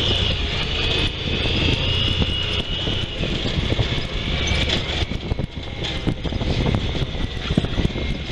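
Honda Pioneer 1000 side-by-side's engine running at low speed: a steady drone with a higher whine that fades about halfway through. Many short knocks and rattles come from the machine working over a rough, rocky trail.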